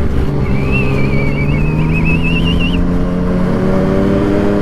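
Sport motorcycle engine pulling under steady acceleration, its pitch rising slowly, with wind rushing past. A thin wavering high-pitched tone is heard for about two seconds near the start.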